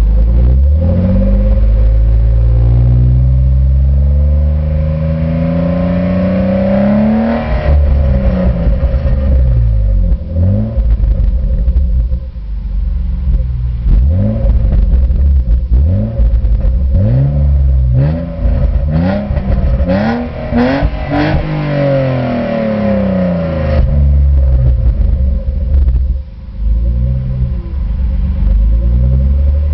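BMW E36 320i's 2.0-litre straight-six through an Eisenmann exhaust, being revved: the pitch climbs slowly over the first several seconds and drops, then a run of quick rev blips rises and falls through the middle before it settles back near the end.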